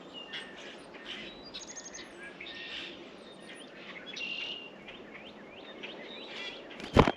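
Small songbirds at a feeder chirping and twittering, many short high calls overlapping. Near the end comes a single sharp, loud knock.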